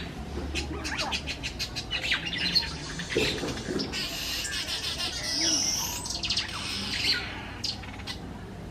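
Small birds chirping and calling, short sharp chirps in quick runs with a few sliding notes and a longer high call a little past the middle.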